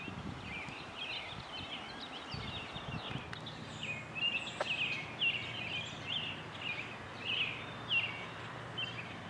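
Birds singing outdoors: a run of short, high chirping notes, unevenly spaced, with a faint low steady hum underneath.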